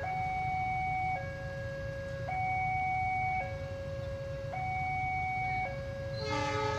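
Railroad crossing warning bell: an electronic two-tone alarm switching between a higher and a lower note about once a second, signalling an approaching train. Near the end a train horn starts to blow over it.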